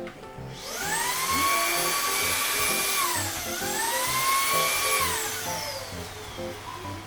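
Dreame Z10 Station cordless vacuum's motor whine. It spins up to a steady high pitch about half a second in, dips briefly and spins up again midway, then winds down near the end. Background music plays underneath.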